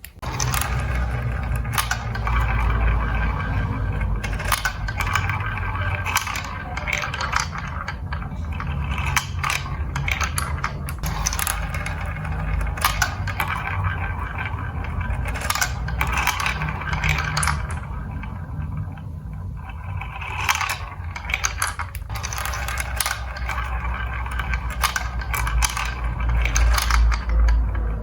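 Marbles rolling down a building-block marble run: a steady low rolling rumble with many sharp clicks and clacks as the marbles knock against the blocks and each other.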